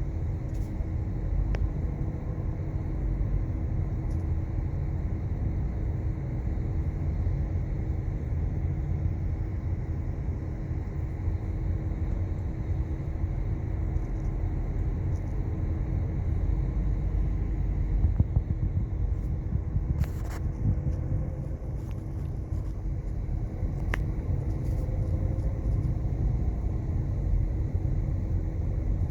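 A car driving along at a steady pace: a low, even rumble of engine and road noise with a faint steady hum, and a couple of small clicks near the end.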